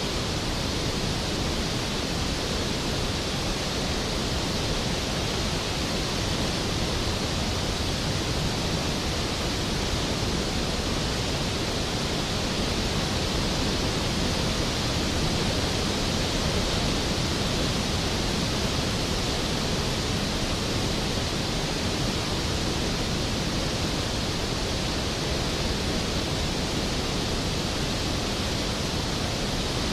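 Skógafoss waterfall crashing into its plunge pool: a steady, unbroken rush of falling water.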